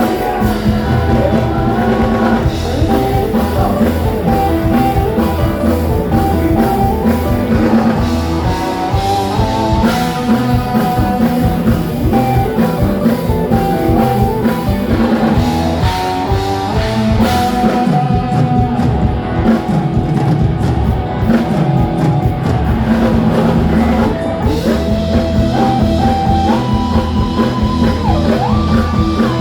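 Live band playing rock-style music with drum kit and guitar, and a singing voice.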